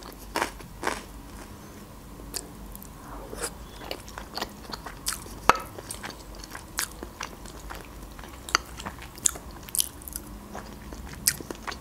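Close-miked eating sounds: crisp crunching and wet chewing of raw red bell pepper, then softer chewing of a cheesy casserole. A single sharper clink near the middle is a fork on the glass baking dish.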